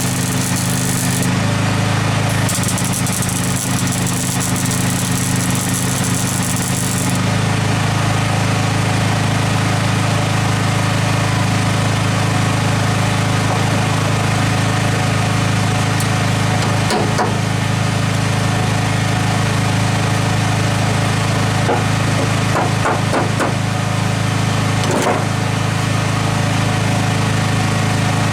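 Small generator engine running steadily, its note changing about seven seconds in, with a few sharp clicks in the second half.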